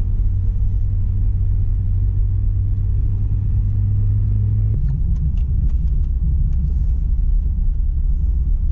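1997 Mazda Miata's 1.8-litre four-cylinder engine pulling the car along a snow-covered road, a steady drone that changes abruptly about five seconds in, as the steady engine note drops out into a rougher rumble. A few sharp clicks follow just after the change.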